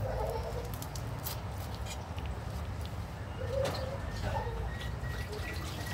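A bird cooing, dove-like, with a few low coos near the start and again past the middle. Underneath is a steady low rumble, with faint clicks from hands handling the fish and skewer.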